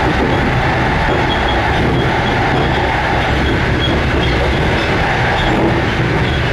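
Loud, steady running noise of a moving passenger train heard from the carriage end by the connecting doors: a low rumble of the wheels on the track with rattling, and faint light ticks now and then.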